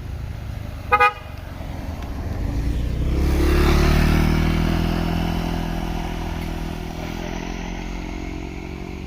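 A short, loud vehicle horn toot about a second in, then a vehicle's engine grows louder, is loudest around four seconds in and slowly fades, its pitch dropping a little as it goes by.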